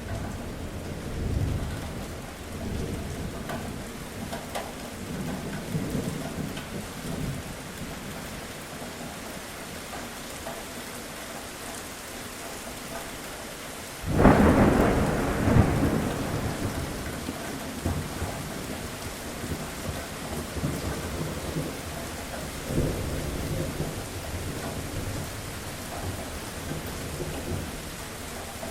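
Steady rain with rolling thunder. About halfway through, a sharp, loud thunderclap breaks in and rumbles away over a few seconds, with quieter rumbles before and after.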